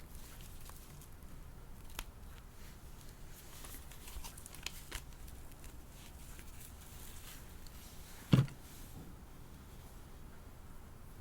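Light clicks and rustles of a doll and its small plastic pieces being handled, with one much louder thump about eight seconds in.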